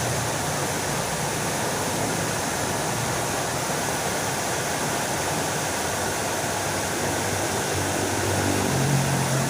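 Fountain water splashing steadily, with a low hum that grows louder near the end.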